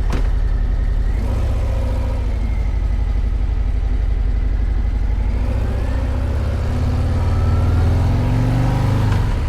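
Harley-Davidson Street Bob's Milwaukee-Eight 117 V-twin running, its pitch rising steadily over about three seconds as the bike accelerates, then dropping just before the end.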